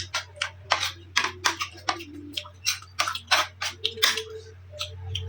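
Close-miked eating: irregular clicks and smacks of chewing, several a second, over a steady low hum.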